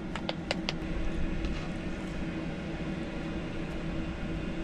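A steady low mechanical hum with a couple of held tones, with a few light clicks in the first second.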